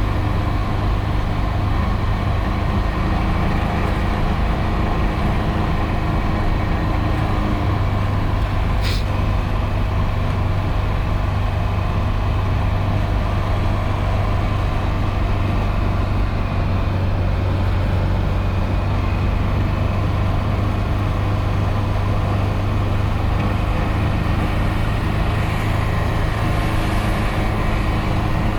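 Nissan 240SX's engine running at a steady low drone while driving, with a hole blown in its exhaust. A brief sharp high tick about nine seconds in.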